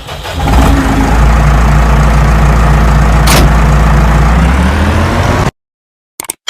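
Nuffield 690 tractor's six-cylinder diesel engine running at a steady speed, swelling up over the first half second, with one sharp click midway, and cutting off suddenly about five and a half seconds in.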